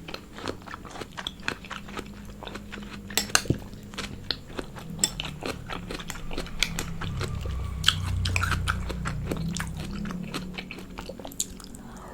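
A person chewing and biting food close to the microphone: a steady run of small sharp clicks and crunches, densest about three seconds in.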